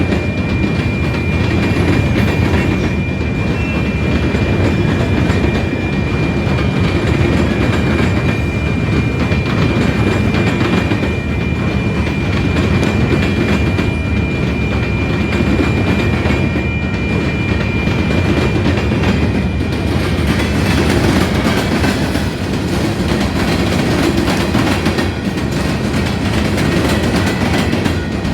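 Coal train rolling past, a steady heavy rumble with the clickety-clack of wheels over rail joints. A thin, steady high-pitched ring runs over it and stops about two-thirds of the way through.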